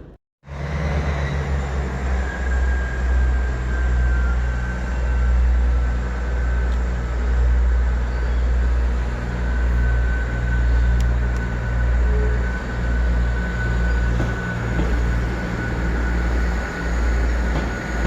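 A train running by: a loud, steady deep rumble that swells and eases every second or two, with a faint thin high squeal over it. It starts abruptly after a moment of silence at the very beginning.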